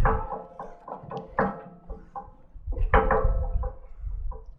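The swivel head of a Hyd-Mech S20 Series 2 horizontal bandsaw being swung on its pivot base with the lock free, the metal grating and squeaking in short ringing strokes. The strokes come in two bouts, the second starting about three seconds in.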